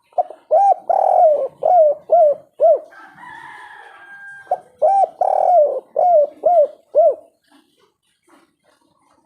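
Spotted dove cooing: two phrases of about six low hooting coos each, with a quieter steady tone in the pause between them.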